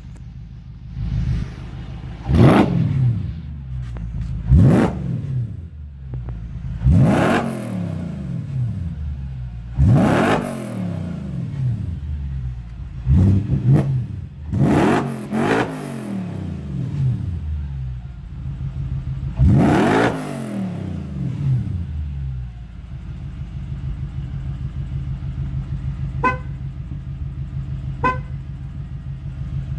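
Audi S4 B6's 4.2-litre V8 through an aftermarket Milltek exhaust, revved in about eight sharp blips, each falling quickly back to idle. Near the end it settles into a steady idle.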